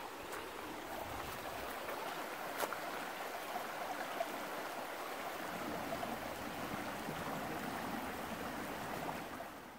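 Small woodland stream flowing: a steady rush of running water, fading out at the very end.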